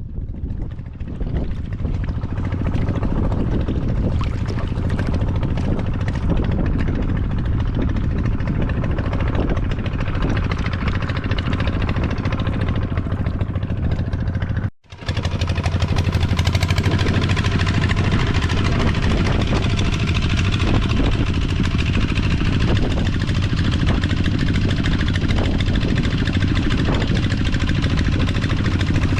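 A small engine running steadily with a low hum. The sound cuts out abruptly about halfway through and resumes at once, still steady.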